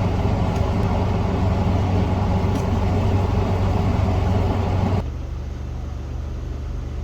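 Steady mechanical hum and hiss with a few faint clicks; the level drops abruptly about five seconds in.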